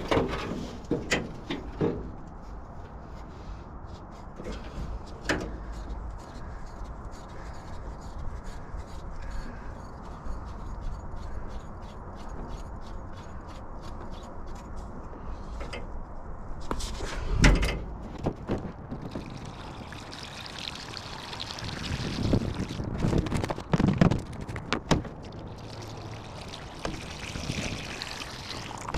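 Antifreeze being poured from a jug into the truck's cooling system, a rushing, trickling liquid sound. It comes with scattered knocks and clicks of handling, and one loud knock a little past halfway.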